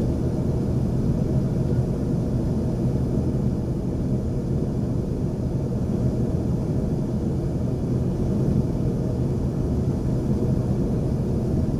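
Cabin noise inside an Embraer 140 regional jet in flight: a constant low rumble of the jet engines and airflow with a steady low hum.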